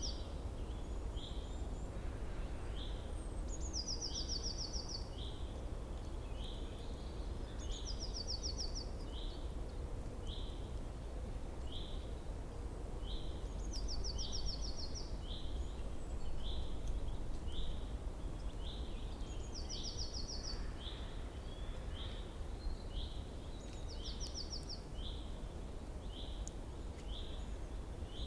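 Birds singing: a high, fast trill of about a second, repeated every few seconds, over a steady run of short chirps about once a second. A constant low outdoor rumble lies underneath.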